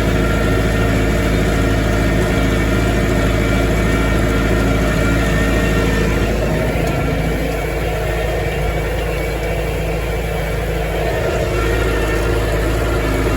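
Massey Ferguson farm tractor engine running steadily while raking hay, its note dropping slightly about seven seconds in.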